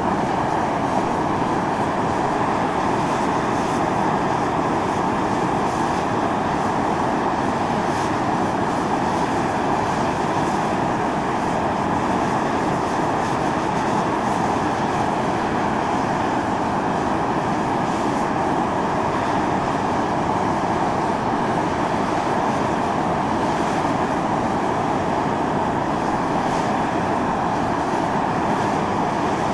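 Fumarole vent on Mt. Io (Atosanupuri) jetting volcanic steam and gas: a steady, unbroken rushing hiss that holds an even level throughout.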